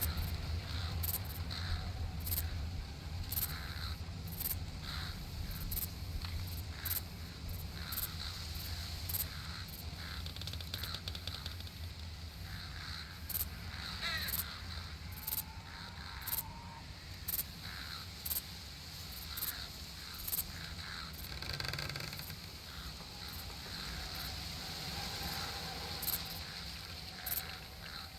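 Summer nature ambience: birds calling now and then over a steady low rumble, with short high ticks about once a second throughout.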